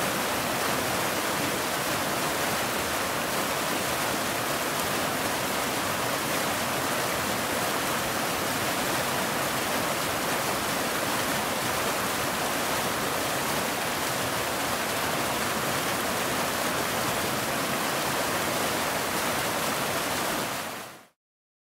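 Waterfall rushing steadily, a constant even hiss of falling water that fades out quickly near the end.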